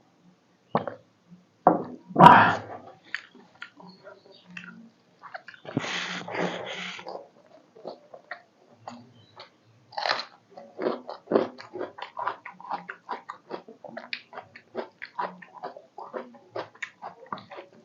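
Close-up eating sounds of a person chewing a mouthful of chicken curry and rice, with quick, irregular wet chewing clicks. There is a louder bite about two seconds in and a longer noisy stretch of chewing around six seconds in.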